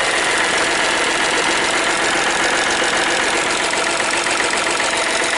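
Hyundai Matrix 1.5 CRDi diesel engine idling steadily while warming up just after its first start, with a metallic clatter from the newly fitted hydraulic lifters, which have not yet been pumped full of oil.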